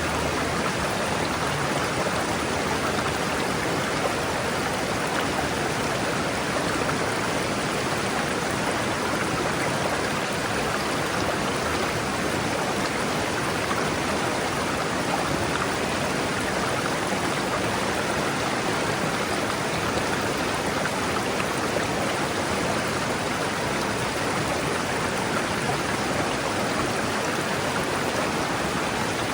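River water rushing steadily over rocks, an even, unbroken rush with no other sounds standing out.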